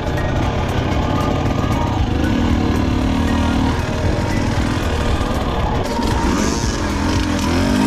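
Two-stroke dirt bike engine running, its pitch sweeping up and down near the end as the throttle is worked.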